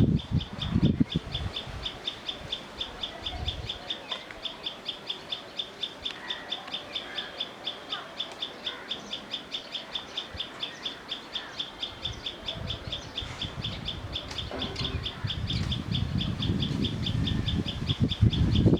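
Birdsong: a rapid, even series of short high notes, about four a second, repeats without a break, with scattered softer chirps around it. A low rumble is heard at the start and again from about three-quarters of the way through.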